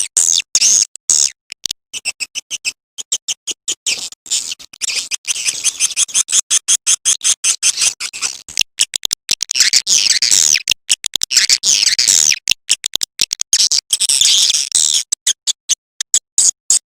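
Swiftlet call recording: a dense, unbroken run of short, high-pitched chirps and chittering twitters, busier in the middle and near the end. It is a 'calling sound' track of the kind played to draw swiftlets to a nesting house.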